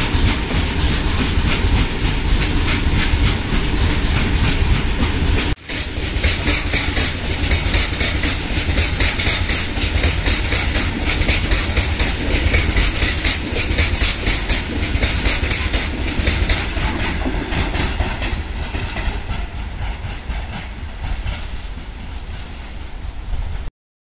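Wheels of a loaded freight train's wagons rolling past, a steady clickety-clack over the rails. The sound dips out briefly about five and a half seconds in, fades over the last several seconds and stops abruptly near the end.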